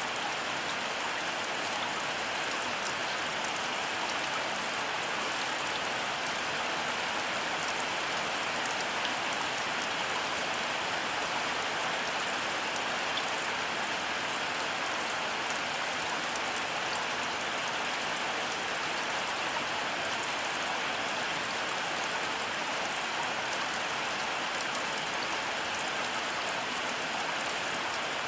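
Heavy rain falling steadily, a dense even patter of drops with no thunderclap and no lull.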